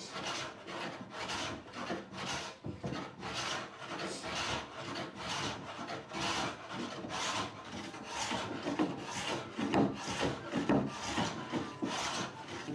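A hand tool rubbing over wood in steady back-and-forth strokes, about two a second.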